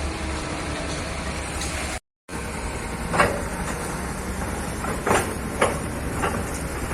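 Hitachi ZX excavator's diesel engine running steadily, with several sharp knocks from the machine working in the second half. The sound cuts out completely for a moment about two seconds in.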